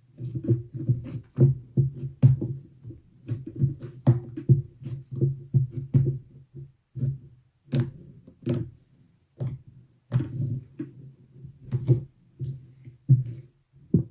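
Slime being squished and kneaded by hand: irregular sticky clicks and pops, several a second, with short pauses.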